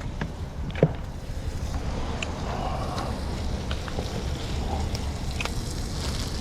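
Wind rumbling on the microphone, with a few light clicks of handling and a sharper knock about a second in.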